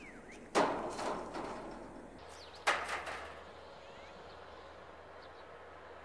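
A bird giving two loud harsh calls, about a second in and again just before the middle, each fading off quickly, with faint short high chirps from birds in between and after.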